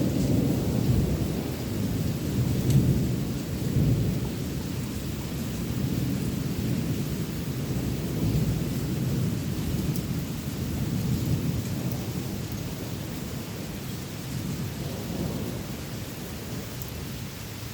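Thunder rolling in a low, drawn-out rumble that slowly fades, over steady rain hiss.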